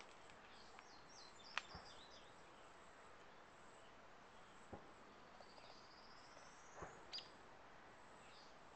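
Faint outdoor ambience with a steady hiss and a few bird chirps, including a rising trilled call about halfway through. Several sharp clicks stand out, the loudest a little over a second in.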